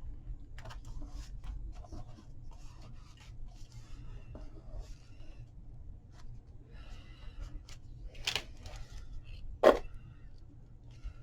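Paper being handled and rubbed on a tabletop as glued paper pieces are pressed down, in scattered soft rustles and scrapes, with two sharper taps near the end, the second the loudest.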